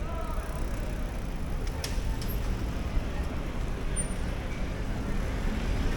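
City street ambience: a steady rumble of road traffic with voices of people nearby and a brief click about two seconds in.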